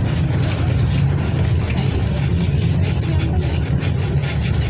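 Mercedes-Benz OF 1722M bus engine running with a steady low rumble.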